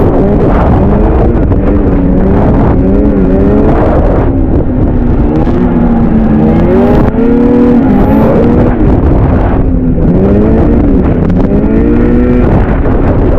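Vintage two-stroke snowmobile engine revving up and down again and again as the sled is ridden, over a heavy low rumble of wind.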